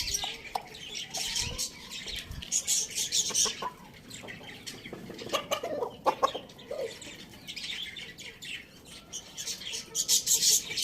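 Chickens clucking, with high chirps and short clicks throughout and a run of lower clucks near the middle.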